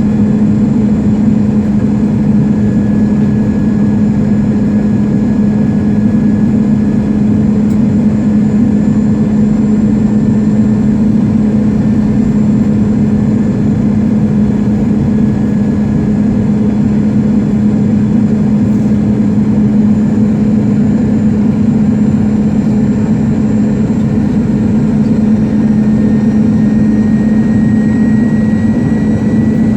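Jet airliner cabin noise on the approach to landing: a loud, steady drone of engines and airflow with a strong low hum and a faint high whine that rises slightly near the end.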